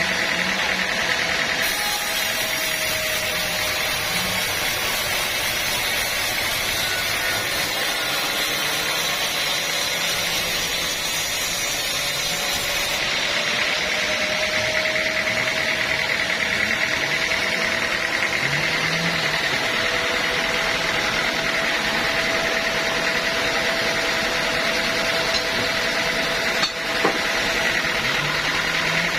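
Band sawmill running steadily, a continuous mechanical drone with a faint whine, and a single brief knock near the end.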